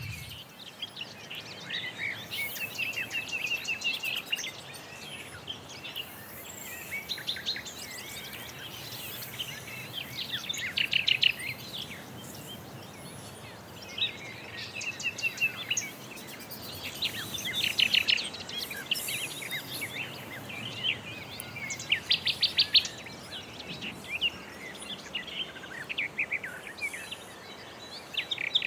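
Songbirds singing: bouts of quick trilled notes every few seconds, over a steady outdoor background hiss.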